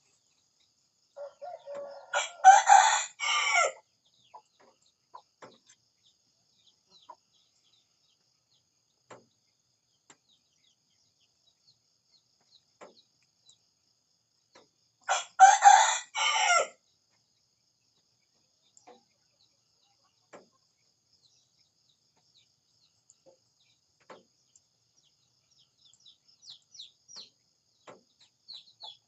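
Rooster crowing twice, once about two seconds in and again about fifteen seconds in, each crow a couple of seconds long. Faint short clicks are scattered between the crows.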